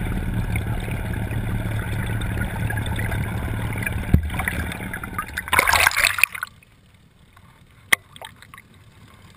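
A boat's motor hum and rushing water, then a loud splash about five and a half seconds in as the net-mounted camera plunges into the lake, after which the sound turns quiet and muffled under water, with one sharp click near the end.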